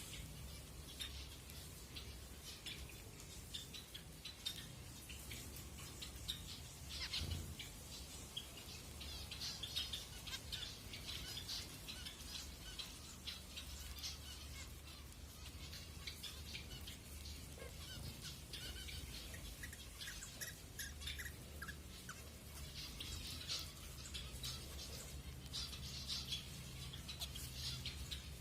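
Zebra finches calling and chirping: many short, high calls in quick, irregular succession, over a steady low hum.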